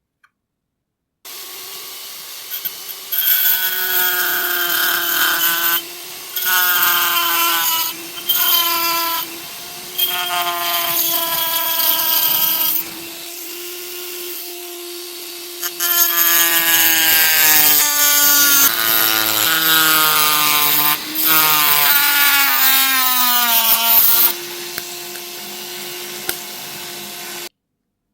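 A small high-speed rotary power tool running steadily, with repeated louder spells as it cuts or grinds into the metal. Its whine sags in pitch under load near the end, then the tool stops abruptly.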